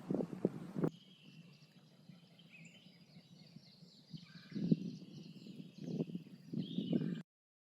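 Footsteps on a trail, a few low thumps at a time, with small birds chirping in the background. A steady hiss drops away about a second in, and the sound cuts off abruptly near the end.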